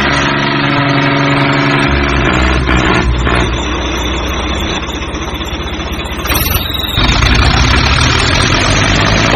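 Tractor engine running with a steady, pulsing note. The note shifts a couple of times and grows louder about seven seconds in.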